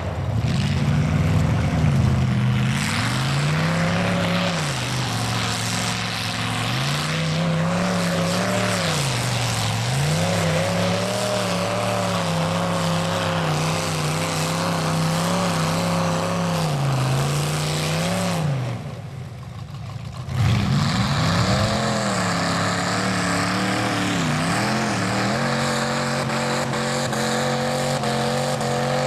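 Mud truck engine revving hard, its pitch rising and falling again and again as the throttle is worked, with a break of about two seconds partway through before it picks up and climbs steadily near the end.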